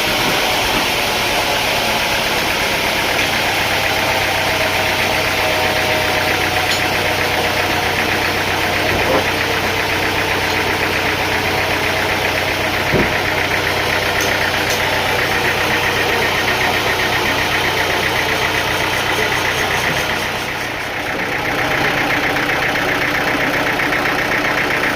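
Engine-driven machinery running steadily with a fast, even churning. There are two short knocks, about nine and thirteen seconds in, and the level dips briefly about twenty seconds in.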